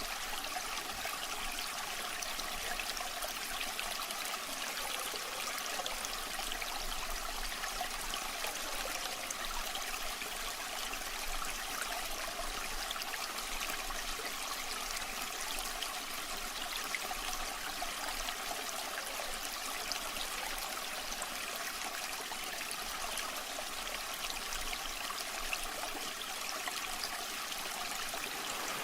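Waterfall water rushing and splashing, a steady, even hiss with little low rumble.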